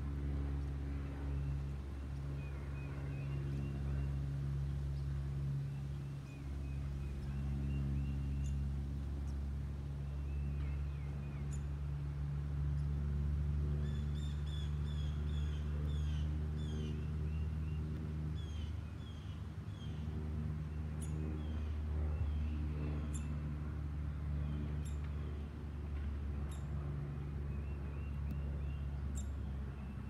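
Short, high, squeaky bird chirps, scattered at first, then coming in quick series from about halfway through. Under them runs a steady low mechanical hum.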